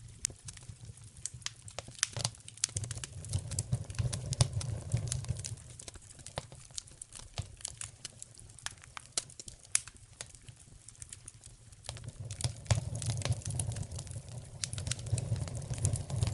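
Fire in a fireplace crackling, with frequent irregular sharp pops over a low rumble of flames that swells twice.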